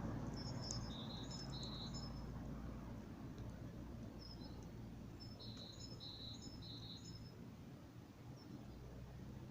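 A small bird chirping in two short bouts of high, repeated notes, over a low hum that slowly fades.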